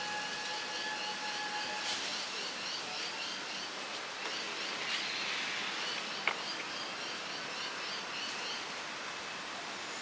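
Steady hiss of rain with a bird calling in quick, repeated high chirps. A steady tone sounds for the first couple of seconds, and a single sharp click comes about six seconds in.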